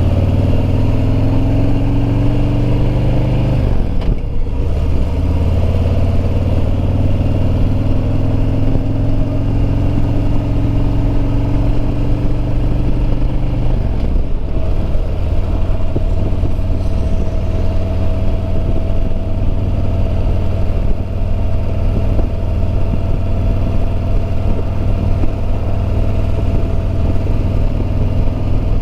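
Harley-Davidson Road Glide Limited's Milwaukee-Eight 114 V-twin pulling under way, its pitch climbing slowly, dropping sharply at two upshifts about four and fourteen seconds in, then holding steady at cruise. Wind rushes over the microphone throughout.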